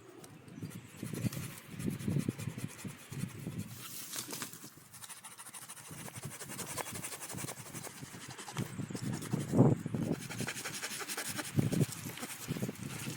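Irregular rustling and crunching with scattered sharp knocks, the loudest about two-thirds of the way through.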